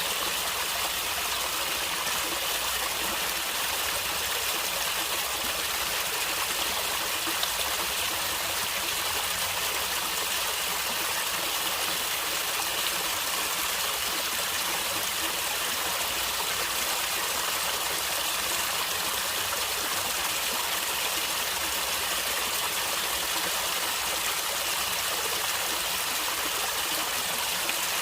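Stream water flowing and gurgling, a steady, even rush with no pauses or changes.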